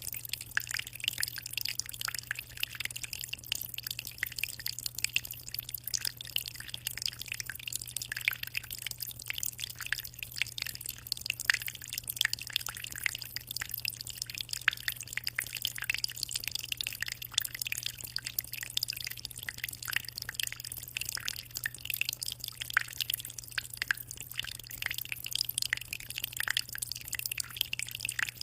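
Water in a small aquarium trickling and splashing with a constant fast patter of small drips, over a steady low hum.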